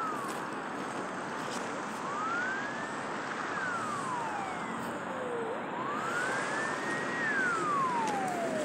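Emergency-vehicle siren wailing: a tone that rises quickly, holds briefly at the top and slides slowly back down, about every three and a half seconds, over a steady hiss of traffic noise.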